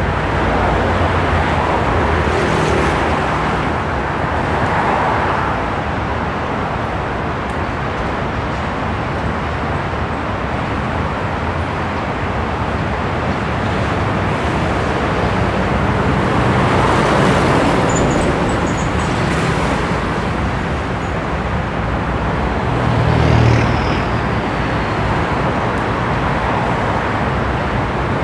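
Road traffic: a steady rush of vehicles passing on a nearby road, swelling several times as cars go by.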